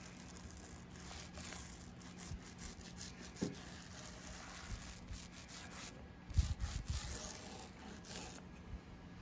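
Faint, intermittent rubbing and scratching of hand work on painted wooden lettering, with a few soft knocks about six and a half seconds in.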